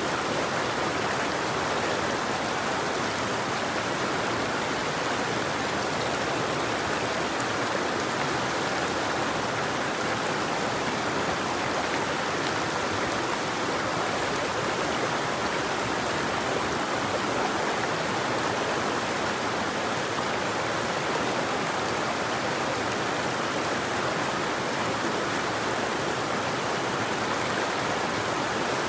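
River water flowing steadily over rocks, a constant even rush with no birdsong.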